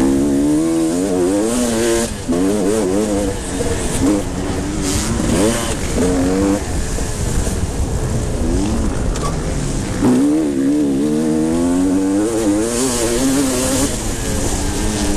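Several motocross bikes racing on the track, their engines revving hard and dropping off over and over as they accelerate and brake, with the pitch rising and falling.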